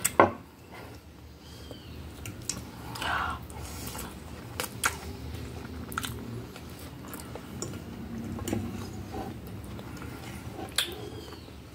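Close-up chewing and mouth sounds of a person eating spaghetti with strips of beef, with scattered light clicks. A sharp knock right at the start is the loudest sound.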